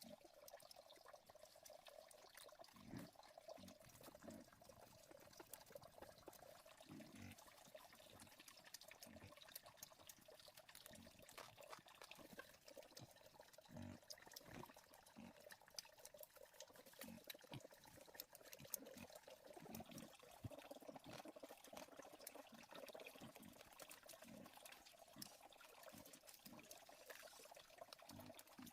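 Faint trickling water, steady throughout, with scattered soft knocks and clicks.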